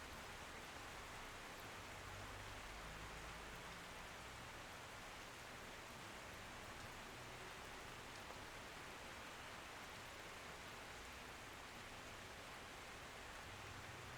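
Steady rain falling, a quiet, even hiss of drops with no change.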